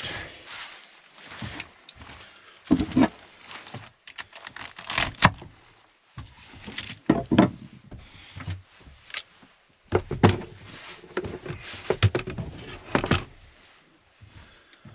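Handling noises while Swiss chard is washed in a collapsible sink: irregular knocks, clatters and scraping or rustling, in several short clusters separated by quiet gaps.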